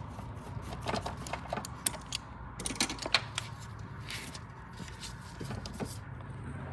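Scattered clicks and rattles of hands working the brake booster vacuum hose and its clip off a Subaru intake manifold, over a steady low hum.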